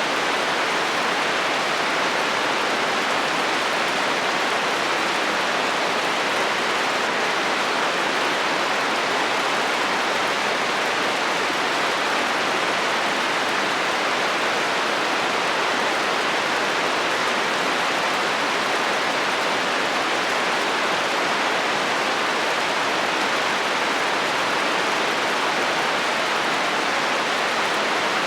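Steady heavy rain falling on a metal roof, an even, unbroken hiss with no thunder.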